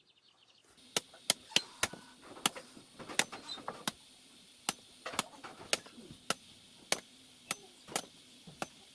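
Hoe blade chopping at a coconut's husk to strip it: a run of about sixteen sharp blows, roughly two a second, starting about a second in.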